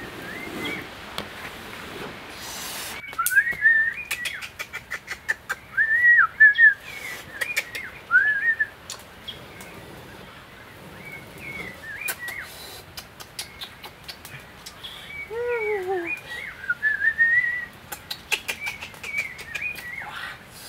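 Birds chirping: repeated short, arching chirps, loudest in two spells early and late, mixed with quick runs of sharp clicks.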